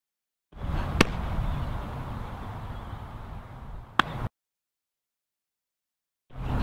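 Sharp pops of a softball smacking into a leather glove, about three seconds apart, over steady outdoor field noise. The sound starts and cuts off abruptly with silent gaps between edited clips.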